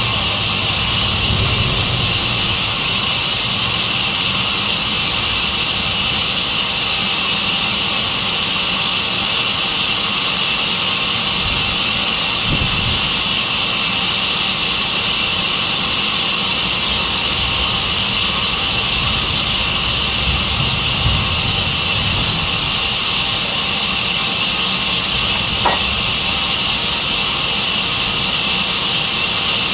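Sawmill saw machine running with a loud, steady hiss.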